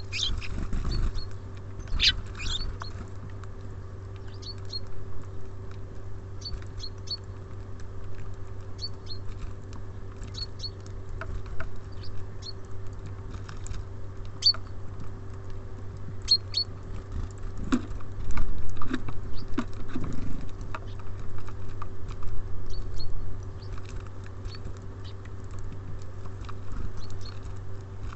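Small birds at a wooden feeder: short high chirps, often in pairs, with pecking, tapping and scrabbling on the feeder that gets busier and louder in the second half. A steady low hum runs underneath.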